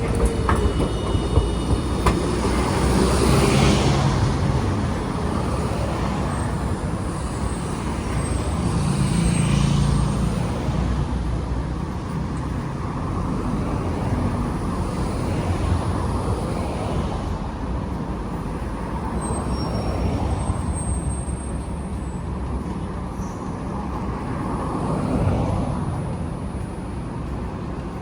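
Street traffic with trams running through: a steady rumble of passing vehicles that swells and fades several times, with a few brief, faint high-pitched squeals.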